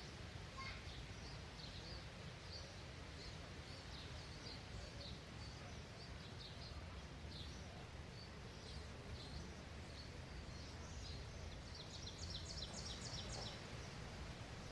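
Small songbirds chirping against a steady low outdoor background noise, with short high chirps throughout and a quick run of chirps about twelve seconds in.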